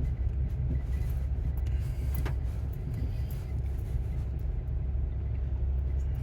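Steady low rumble of a car driving, with a brief click about two seconds in.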